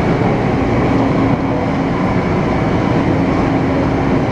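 Taipei Metro C301 train running at speed, heard from inside the car: steady rail rumble with a steady hum from the refurbished propulsion inverter, the sound this train is known for as abnormal inverter noise. The hum drops out briefly about a second and a half in.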